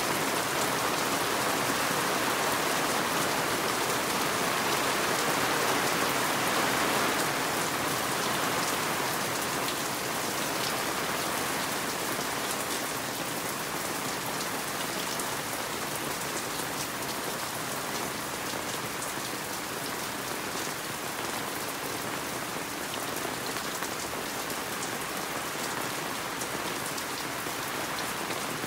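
Steady rain falling on the yard and deck, heard from under a covered porch, a dense patter of drops. It is a little louder for the first several seconds, then eases slightly and holds.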